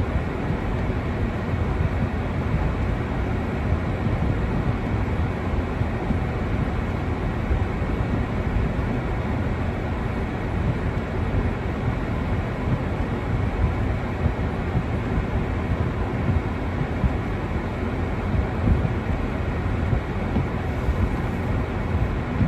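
Wind buffeting the microphone in a snowstorm: a steady, low, fluttering rumble with small gusty peaks throughout.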